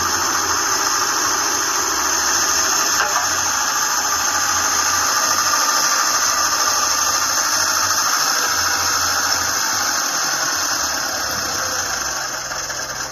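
Homemade excavator running: a steady mechanical drone with a high squealing whine over a fluttering low hum, fading away near the end.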